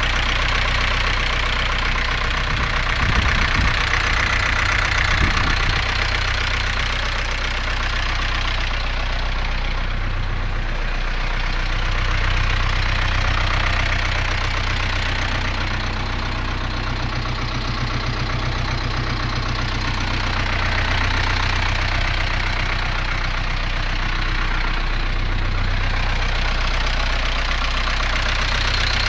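Zetor Z6901 four-cylinder diesel engine running steadily while being run in after assembly, with a couple of brief knocks a few seconds in.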